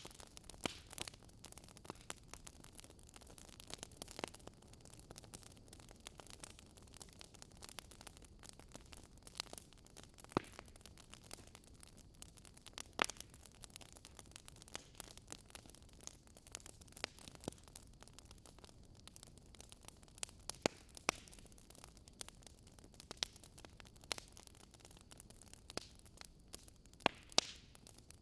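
Wood fire burning in a fireplace: irregular sharp crackles and pops over a soft steady hiss, with a few louder pops about halfway through and near the end.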